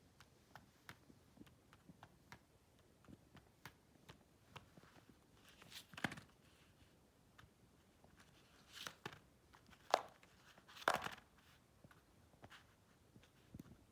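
Faint handling noises: scattered light clicks and a few short rustles of paper, the loudest a little after halfway.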